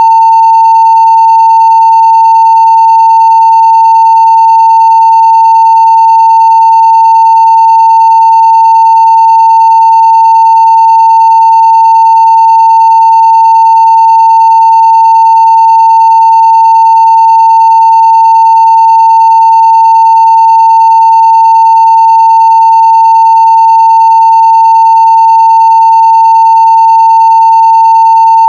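Steady 900 Hz sine-wave test tone at full scale (0 dB): one loud, unbroken, unchanging pitch.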